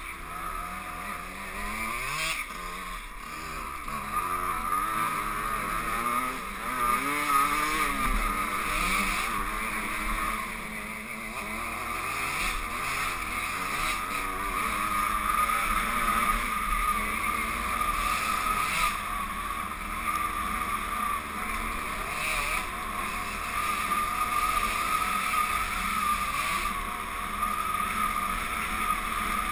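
Two-stroke 125 cc trail motorcycle being ridden off-road, its engine revving up and down repeatedly with the throttle.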